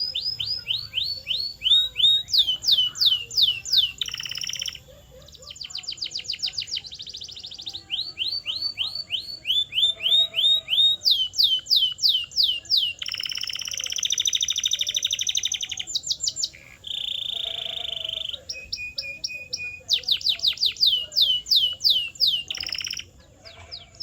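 Domestic canary singing a long, unbroken song of rapid repeated phrases: runs of quick falling notes, about ten a second, switching from one phrase to the next every second or two. Past the middle comes a denser buzzing roll lasting a few seconds, followed by a pair of short steady whistled notes before the quick falling phrases return.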